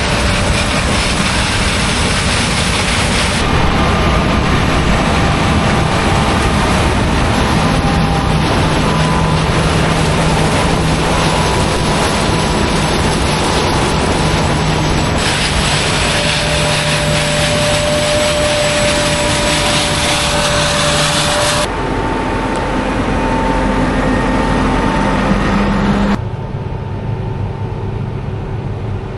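Harvest machinery, combine harvester and grain-hauling equipment, running steadily. The tone changes abruptly several times, and it is quieter in the last few seconds.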